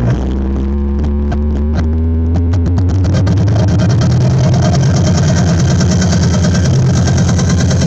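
Loud dance music played through a large 'sound horeg' carnival sound system, with heavy bass. A roll of beats quickens over the first few seconds, then the full beat comes in.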